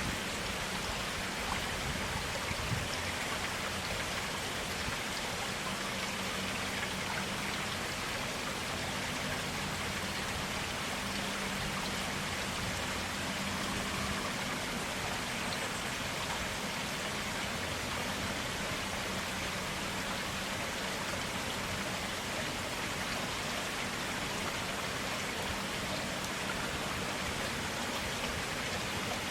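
Clear stream water flowing steadily, an even rushing and splashing with no pauses.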